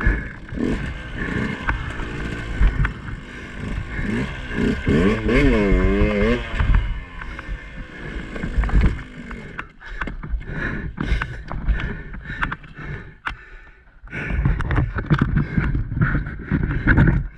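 Two-stroke dirt bike engine revving in uneven throttle blips, its pitch rising and falling, as the bike is worked over an obstacle, with knocks and scrapes throughout.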